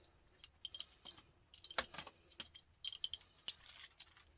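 Copper pipe and aluminium radiator scrap being handled, giving a scatter of light, irregular metallic clinks and rattles.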